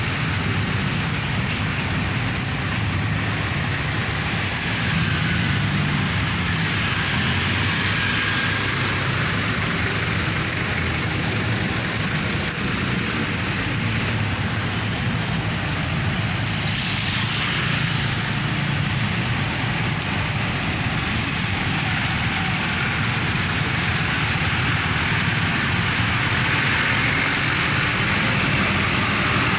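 Steady heavy road traffic: engines of passing trucks, buses and cars running in a continuous low rumble, with tyre hiss. About halfway through, a short swell of hiss rises and fades as a vehicle passes close.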